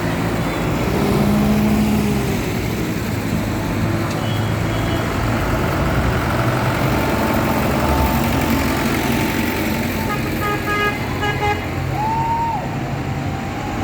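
Tractor engines running steadily as the tractors pass, with a horn tooting about ten seconds in.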